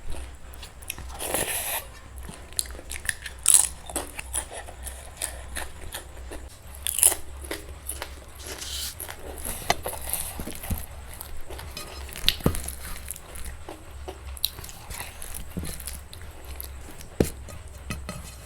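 Close-miked eating: chewing with several crunchy bites and many sharp mouth clicks, over a faint steady low hum.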